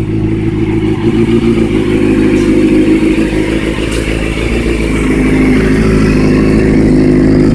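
2001 Suzuki GSX-R750's inline-four running at a steady idle through a cut-down Yoshimura RS3 exhaust, getting a little louder about five seconds in.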